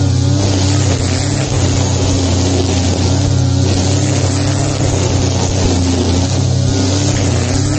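Petrol grass-cutting machine engine running loudly and steadily at working speed while cutting grass, its note wavering briefly about every three seconds.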